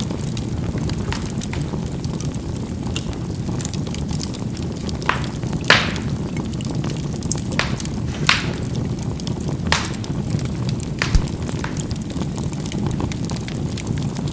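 Charcoal burning in a fireplace: a steady low rumble of the fire, with sharp crackling pops scattered irregularly through it, the loudest about six seconds in.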